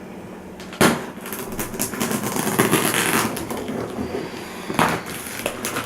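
Large cardboard box being opened. There is a sharp knock about a second in, then a stretch of tearing and scraping cardboard and tape, and another sharp click near the end.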